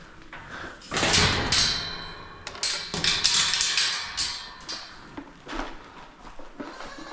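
Clattering knocks and thumps with a short metallic ring, starting about a second in and lasting about four seconds.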